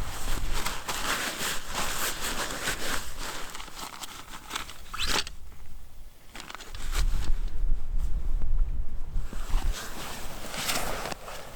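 Rustling and crinkling handling noise, with a heavy low rumble from about seven to nine seconds in.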